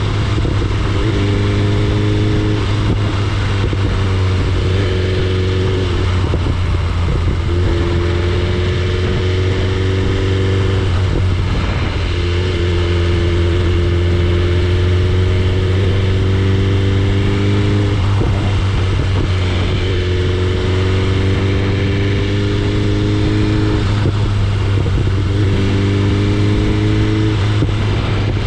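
BMW S1000RR's inline-four engine under way, heard from the moving bike. Its pitch climbs slowly and drops back about five times, as with gear changes, over a steady low rumble.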